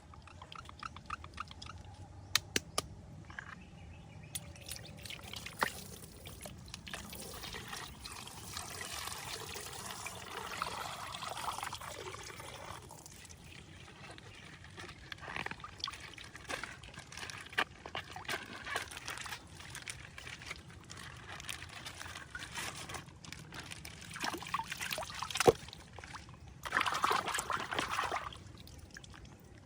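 Thin plastic bag crinkling and rustling as it is torn open and unwrapped by hand, with a few sharp clicks and snaps.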